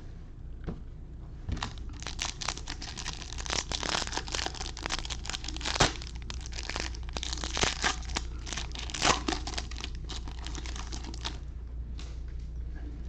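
A foil wrapper of a Bowman baseball card pack being torn open and crinkled. It makes a dense run of crackles from about one and a half seconds in to about eleven seconds in, with a few sharper snaps.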